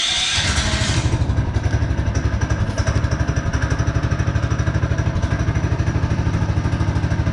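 Small petrol engine with the choke on, catching and then idling cold with an even pulsing beat, about ten beats a second.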